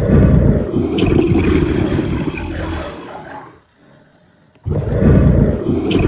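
Lion roaring: one long, rough roar that fades toward its end, then a second, shorter roar near the end.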